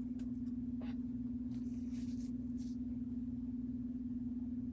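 A steady electrical hum, one constant low tone, with faint clicks and a brief rustle of handling around two seconds in.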